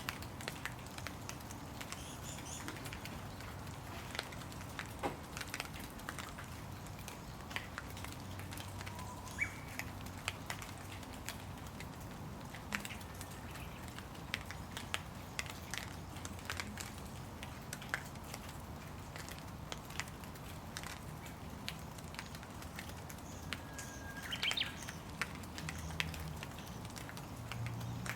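Steady rain falling, with dense, irregular drops pattering and dripping. A few short bird chirps come through, the clearest about three-quarters of the way in.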